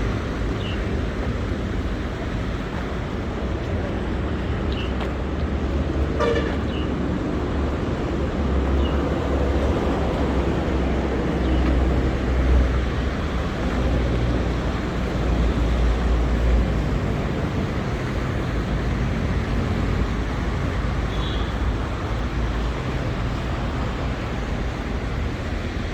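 Street traffic noise, a steady rumble and hiss of passing vehicles, with a short car-horn toot about six seconds in and another brief high toot near the end.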